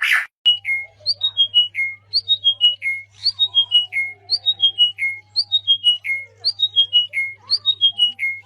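A bird singing a short phrase of about five clear whistled notes that step down in pitch, repeated about once a second, with fainter, lower calls from other birds behind it.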